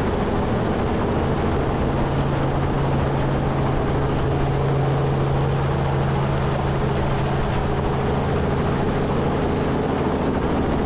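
Helicopter engine and rotor running steadily: a constant hum with a few held tones.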